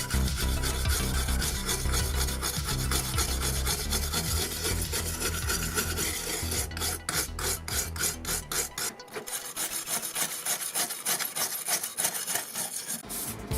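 Hand abrading of a 1:18 scale model car's body: rough scraping in repeated back-and-forth strokes, most distinct in the second half.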